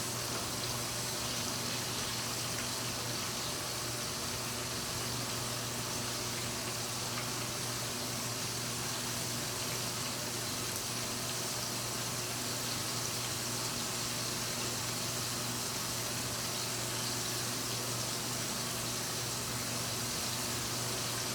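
Battered wild turkey pieces deep-frying in hot oil: a steady sizzle that holds even and unbroken.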